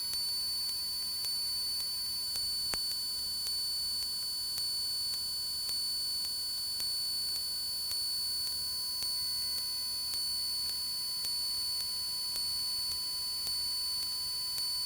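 Steady electrical whine and buzz in a light aircraft's intercom audio feed, several fixed high tones over a faint hiss, with a slight pulse about once a second.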